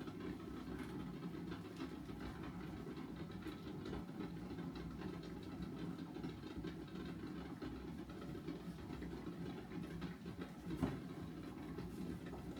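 Pan of eggs on the boil: steady low rumbling of bubbling water, with faint clicks and one sharper knock about eleven seconds in.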